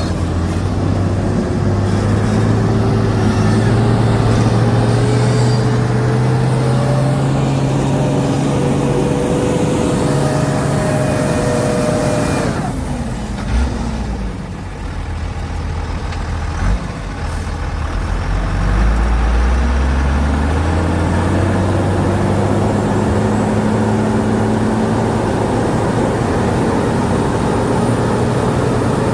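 Heavy diesel earthmoving engine working under load: its pitch climbs steadily for about twelve seconds, drops sharply, and after a lull with two short knocks climbs again.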